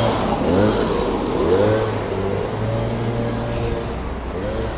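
Road traffic: a car engine running and revving, its pitch rising and falling, easing off toward the end.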